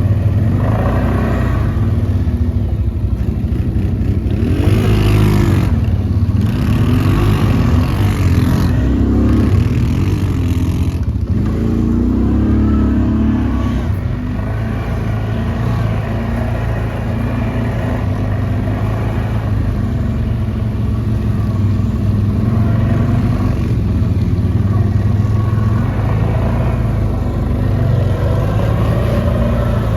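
Quad bike (ATV) engine running on the move. The revs rise and fall several times in the first half, then it runs more steadily.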